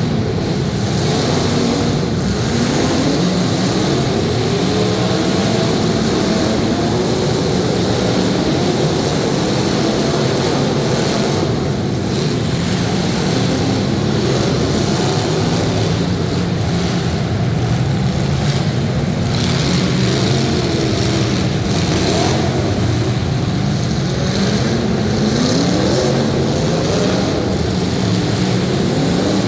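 Several demolition derby car engines running and revving, their pitches rising and falling over one another, with a few sharper bangs mixed in.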